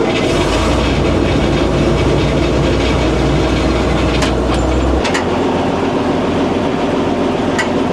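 Hetzer's Praga straight-six petrol engine running steadily, with metallic rattles and a few sharp clicks from the tank's hull and controls.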